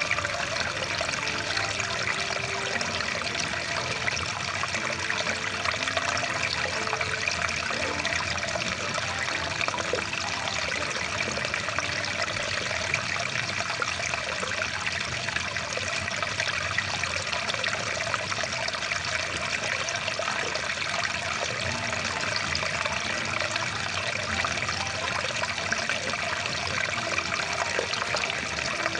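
Rushing water stream, a steady, unbroken flow full of small splashes.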